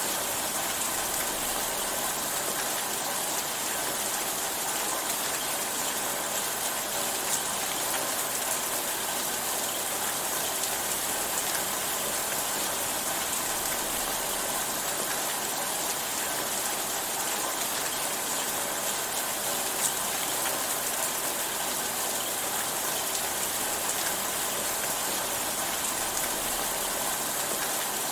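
Steady rainfall: an even hiss of many drops, with an occasional single drop standing out.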